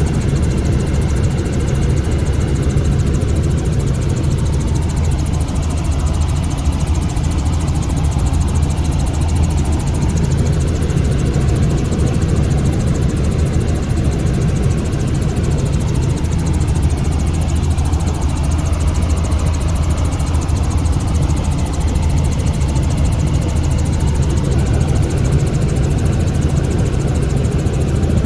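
Helicopter in flight heard from inside the cabin: a steady, unchanging drone of engine and rotor.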